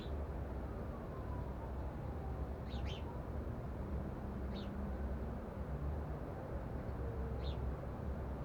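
A few short, high chirps from house sparrows: a quick pair about three seconds in, then single chirps roughly two and four seconds later. Under them runs a steady low background rumble.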